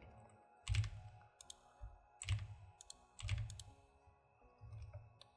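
Computer keyboard keystrokes: about half a dozen separate taps, spaced unevenly over several seconds.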